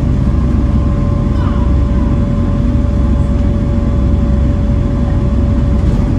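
Volvo B7TL bus's six-cylinder diesel engine running under way: a heavy steady low rumble with a constant high whine held over it.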